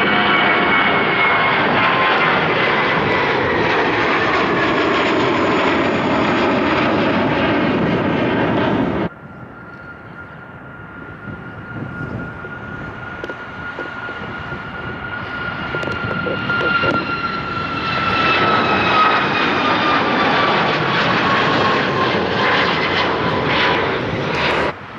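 Airliner engines passing close, a loud roar with a whine slowly falling in pitch, which cuts off abruptly about a third of the way in. A second aircraft's engine whine then builds, louder from about two-thirds of the way through, and cuts off suddenly near the end.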